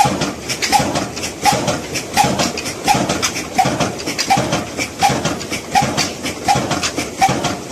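Old Ruston Hornsby diesel engine running with a slow, even beat, about one and a half strong beats a second, and rapid clattering clicks between the beats.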